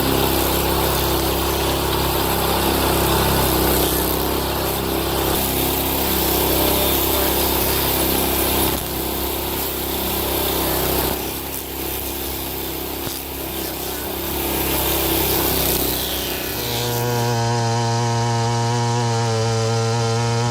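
A power machine working wood, giving a loud, dense, uneven mechanical noise. Near the end it switches abruptly to a large chainsaw engine running at a steady, unchanging pitch.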